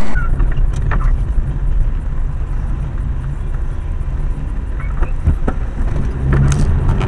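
Car engine and road noise: a steady low rumble with a few faint clicks, the engine note rising slightly near the end.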